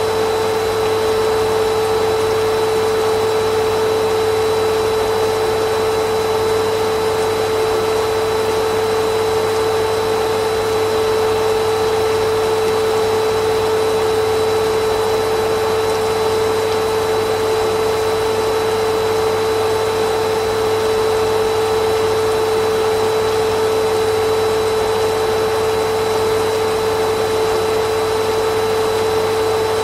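Vacuum cleaner motor running continuously: a steady, unchanging rushing drone with one strong hum and a faint high whine over it.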